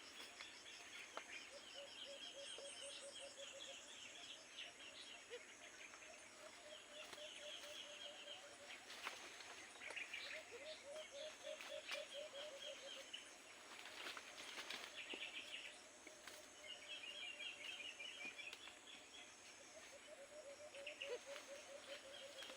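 Faint rural outdoor ambience with repeated trilling calls, each a run of rapid pulses lasting a second or two. Some are low-pitched and some high-pitched, recurring every few seconds.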